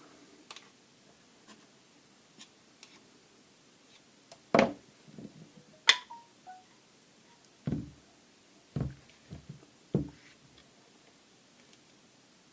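Pressure washer pump parts being handled and set down on a workbench: a few faint clicks, then a series of louder knocks and taps through the middle, one sharp click with a brief ring.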